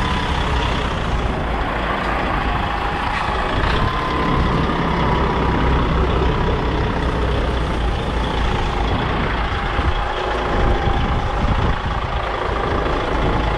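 Container truck's diesel engine running as the rig moves slowly along, with a faint whine that wavers slowly in pitch.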